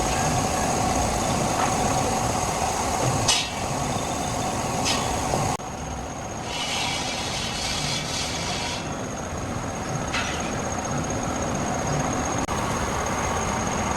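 Heavy machinery running with a steady rumble, broken by a few sharp knocks. The sound changes abruptly about five and a half seconds in and again near the end.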